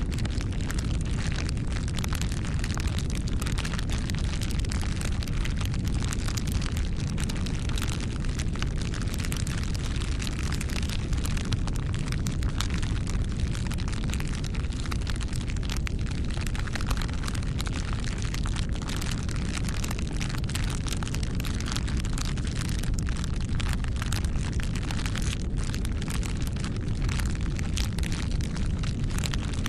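Wood fire burning steadily: constant crackling over a low rumble of flames.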